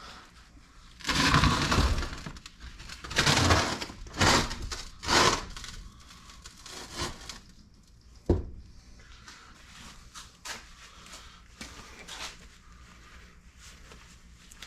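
Handling noises from tools and engine parts being worked on at a workbench: several loud, short bursts of noise in the first five seconds, a sharp knock a little past eight seconds, then a few faint clicks.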